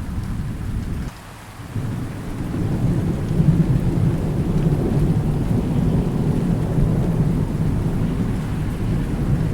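Thunder rumbling low over steady rain. The sound drops away briefly about a second in, then a long rumble builds and holds.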